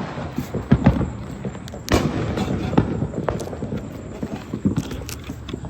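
Consumer fireworks going off: an irregular run of pops and bangs, with a louder bang about two seconds in.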